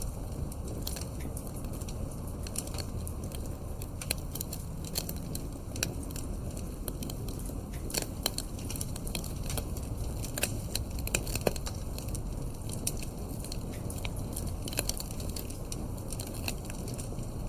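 Wood fire burning in a fireplace: a steady low rumble with frequent irregular crackles and pops, a few sharper pops in the middle.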